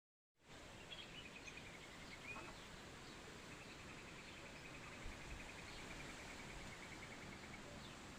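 Faint outdoor ambience with a high, rapid pulsed chirping trill heard twice: a short run near the start and a longer one of about three seconds in the middle. Scattered brief chirps are heard throughout.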